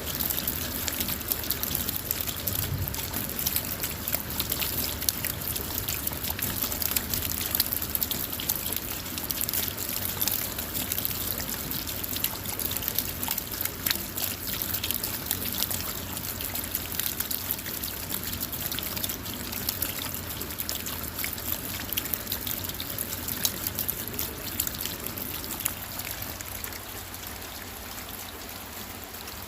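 Steady rain falling on a car's roof and windows, heard from inside the car: an even hiss dotted with many small drop ticks.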